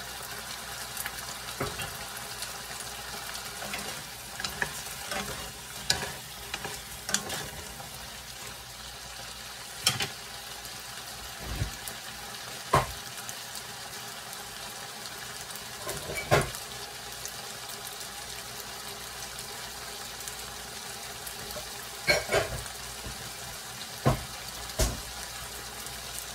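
Shrimp sizzling steadily in a hot nonstick pan with a splash of vinegar. Sharp clicks and knocks are scattered through the sizzle, the loudest a little before and a little after the middle.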